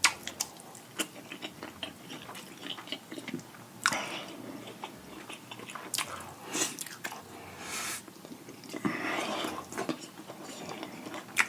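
Close-miked eating of a sauce-coated deshelled seafood boil: wet chewing and biting, with irregular sharp smacks and a few louder, crunchier bites.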